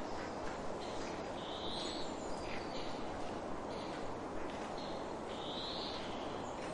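Birds calling in short high notes, repeated every second or two, over a steady rush of water.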